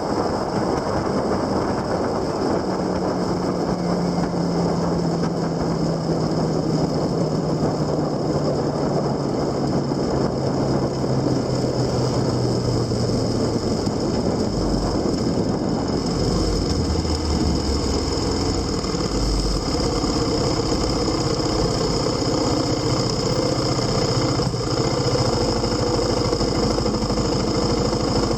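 Motorcycle engine heard from onboard over a steady rush of wind and road noise; its pitch falls steadily as it slows through the first half, then it runs low and uneven, near idle.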